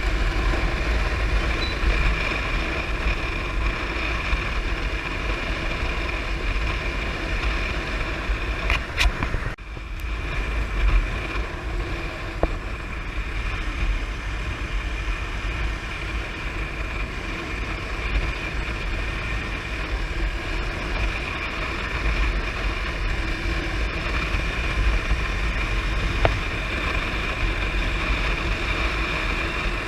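Hero Xpulse motorcycle cruising at highway speed: steady engine and road noise with wind rumbling on the microphone, dipping briefly about ten seconds in.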